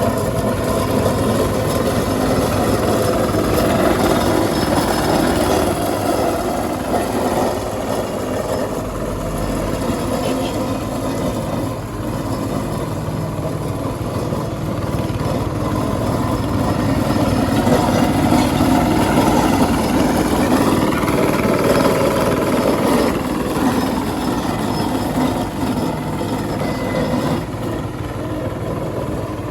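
CAT 462F backhoe loader's diesel engine running steadily under load while it works, with rough grinding texture from the machine breaking up the road surface.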